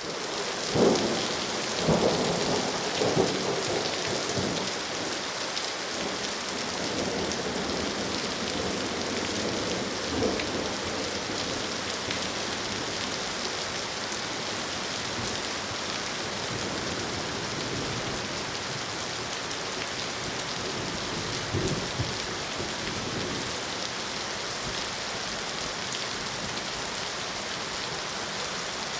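Steady, heavy rain falling. It is broken by a few short, louder bursts in the first few seconds and again near the middle and about two-thirds of the way in.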